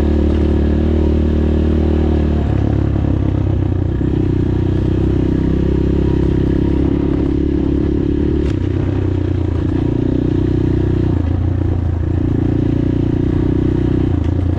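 PROGASI Super Max 250 enduro motorcycle engine running under way, heard from the rider's position, its pitch changing in steps a few times as the revs go up and down.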